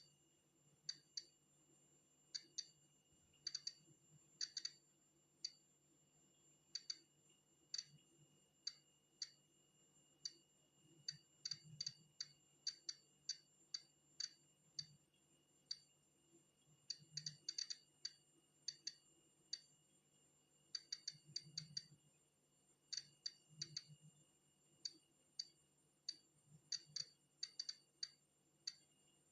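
Polon EKO-C digital Geiger counter clicking at random, irregular intervals, sometimes several in quick succession. Each click is one detected count of natural background radiation.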